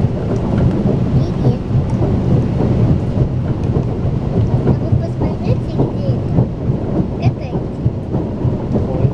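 Steady low rumble of a high-speed passenger train running at speed, heard inside the carriage: wheels and running gear on the rails.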